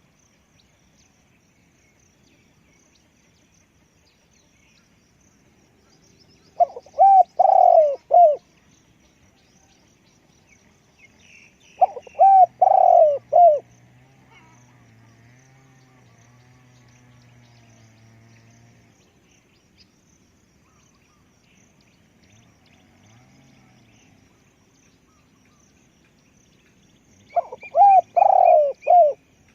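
Spotted dove cooing in three phrases of several rapid coos each: about six seconds in, about twelve seconds in, and near the end. Faint chirps of small birds sound in between.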